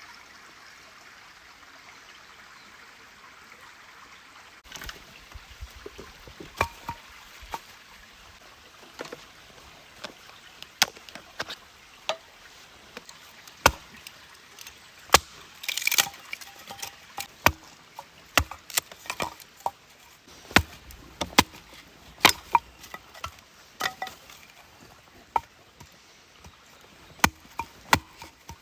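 Firewood giving sharp, irregular wooden cracks and knocks, one or two a second and sometimes in quick clusters, starting about five seconds in after a faint steady hiss.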